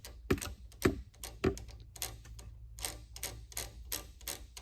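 A run of sharp metallic clicks and taps at the milling machine, sparse at first and then quickening to two or three a second, over a low steady hum.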